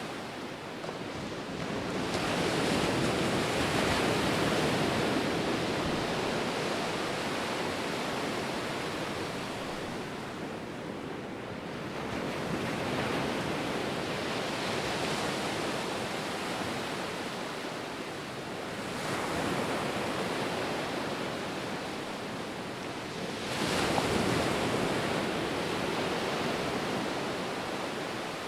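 Ocean waves breaking and washing on the shore in a steady rush of surf, swelling with each new wave about every five to ten seconds, the strongest near the end.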